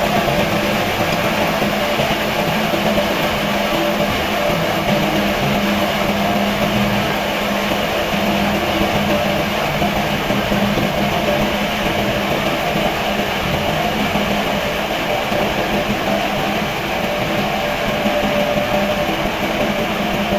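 A machine running steadily: a loud, even drone with a constant low hum that does not change.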